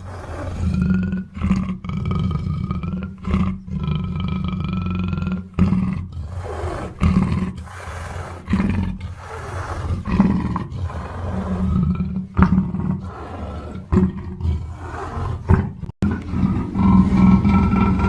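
Black panther giving a series of deep, repeated calls.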